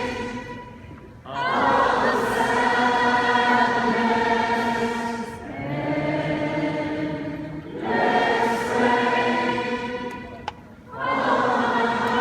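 Many voices singing together in a slow melody, long held notes in phrases of a few seconds each with short breaths between them, like an arena crowd singing along.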